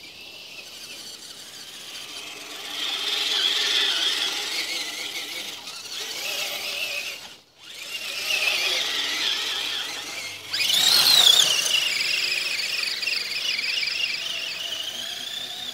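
Electric motor of an RC truck whining at high pitch, rising and falling as the throttle is worked. It drops out briefly about seven and a half seconds in, then jumps up sharply and stays high.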